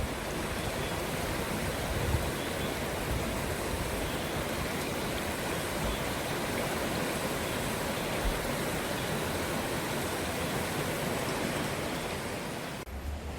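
Mountain stream rushing over rocks: a steady, unbroken water rush that changes abruptly near the end.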